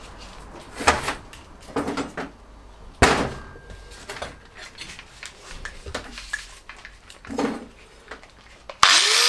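Scattered knocks and clatter of steel angle pieces being handled and set in place on a bench, a few strokes about a second apart. A short louder noise with a rising tone comes near the end.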